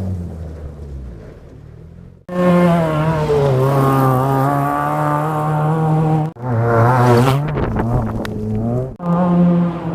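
BMW E36 318ti rally car's four-cylinder engine running hard, in short clips joined by abrupt cuts: first fading away, then loud and fairly steady, dipping and climbing again in the middle clip.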